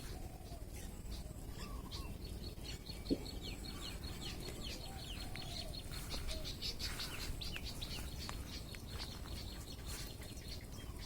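Birds calling at dawn: one bird repeating a high chirp several times a second, other birds' short falling calls, and some lower clucking calls. There is a single sharp click about three seconds in.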